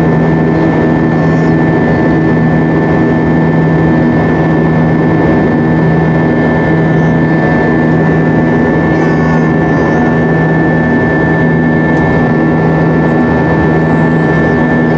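Airbus A320-232 engine and airflow noise heard inside the passenger cabin: a loud, steady drone with a low hum whose tone beats in a slow, even pulse about once a second.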